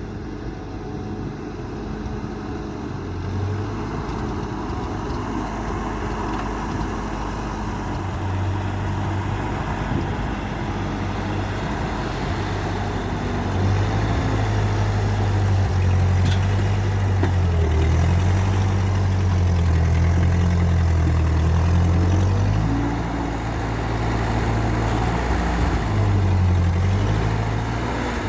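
Ford 8N tractor's four-cylinder engine running, its pitch rising and falling as it works, louder through the middle stretch.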